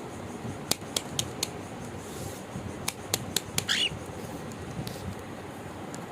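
A caged small pet parrot giving one short chirp about four seconds in, among a series of sharp clicks.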